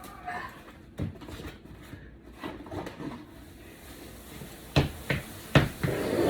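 Scattered wooden knocks and clatter from glued-down linoleum and plywood being pried up and handled, with a few sharp knocks close together about five seconds in.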